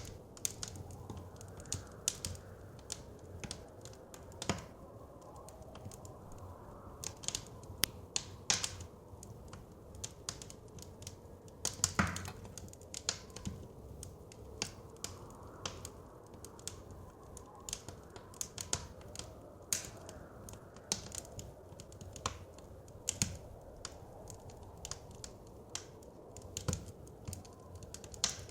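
Wood fire crackling, with irregular sharp pops a few times a second and one louder pop near the middle, over a steady low rush of blizzard wind.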